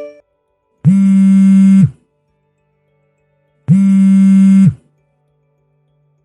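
A phone buzzing with an incoming call: two even, one-second buzzes about three seconds apart, each switching on and off abruptly. This is the call that rings out unanswered.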